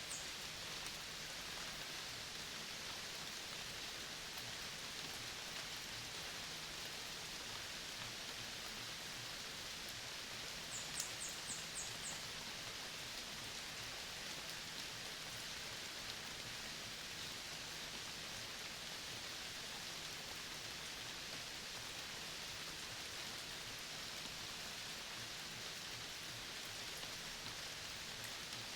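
Steady, even hiss of outdoor forest ambience. About eleven seconds in, a quick series of about five very high chirps.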